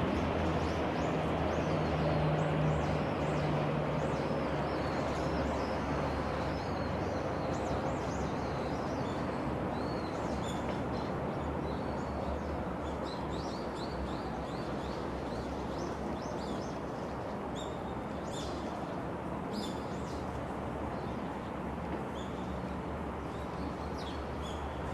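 Small birds chirping again and again over a steady rumble of vehicle noise that eases slowly.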